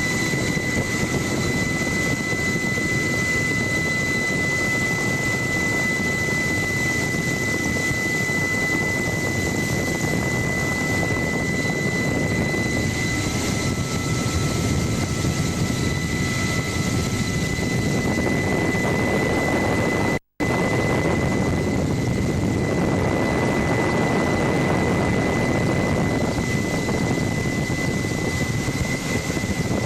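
Helicopter in flight heard from aboard: steady rotor and engine noise with a constant high-pitched whine. The sound cuts out completely for a split second about two thirds of the way through.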